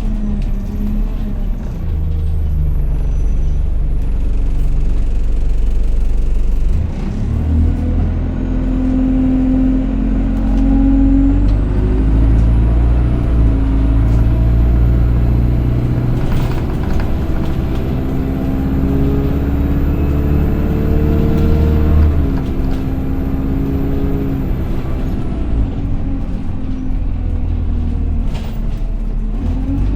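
Interior sound of an Alexander Dennis Enviro200 single-deck bus pulling away and accelerating, the engine note climbing and dropping back as the gearbox shifts. Over it runs the loud, high-pitched 'hoover' whine, which rises about a third of the way in, holds, and falls away as the bus eases off near the end.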